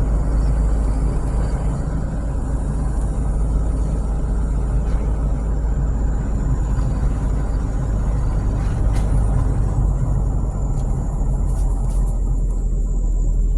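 Car being driven: a steady low rumble of engine and tyres on the road.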